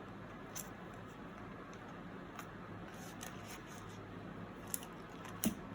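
Faint rustles and light ticks of paper bills and plastic binder envelopes being handled and straightened, a few scattered clicks over a steady low room hum.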